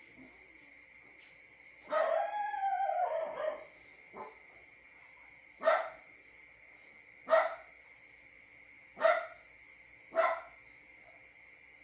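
A dog barking: a longer drawn-out cry about two seconds in, then four single barks spaced about a second and a half apart. A faint steady high drone runs underneath.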